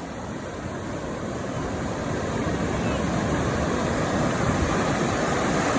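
Ocean surf rushing up the beach, a steady roar of water that grows louder throughout.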